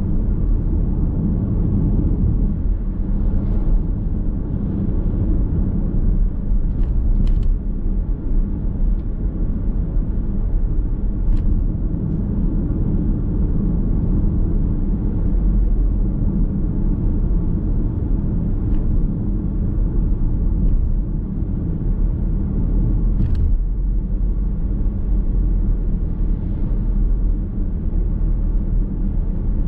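Car driving along a road: steady low rumble of tyres and running gear from inside the cabin, with a few brief sharp ticks scattered through.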